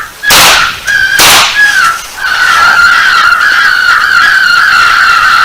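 Two shotgun shots about a second apart. From about two seconds in, a steady, wavering high-pitched tone carries on.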